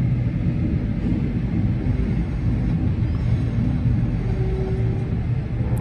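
Steady low rumble of a regional passenger train running along the line, heard from inside the carriage.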